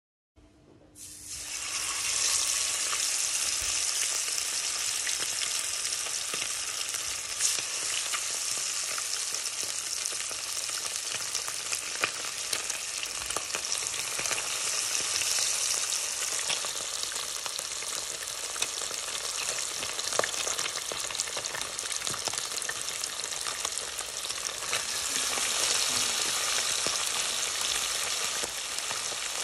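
Chicken drumsticks deep-frying in hot oil in a pot: a steady loud sizzle with a few sharp crackles. It starts about half a second in and builds to full strength within a couple of seconds.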